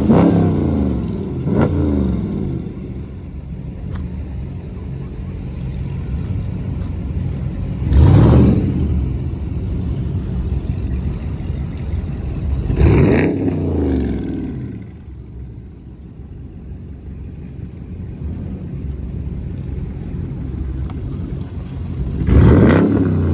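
Muscle-car V8 engine revved in short blips about five times, pitch rising and falling each time, over a steady low idle rumble.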